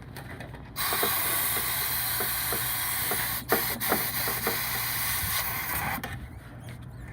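Compressed-air blow gun hissing into the Blizzard mixer motor's brush openings, blowing carbon dust off the armature, with scattered clicks as the motor is spun. The air blast starts about a second in and cuts off about six seconds in.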